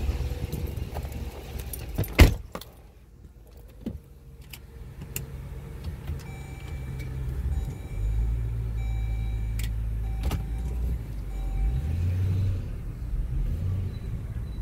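A 2011 Jeep Grand Cherokee's 5.7 Hemi V8 idling with its exhaust resonators cut out. About two seconds in a car door slams shut and the engine sound drops to a muffled hum heard inside the cabin. The low exhaust hum grows louder again from about eight seconds in.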